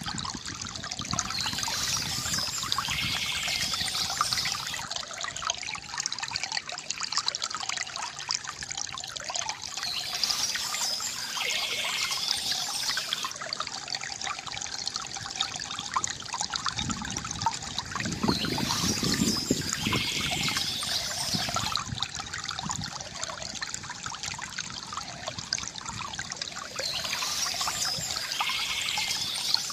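Stream water trickling and splashing steadily over stones, with birds singing above it in short spells that recur about every eight or nine seconds.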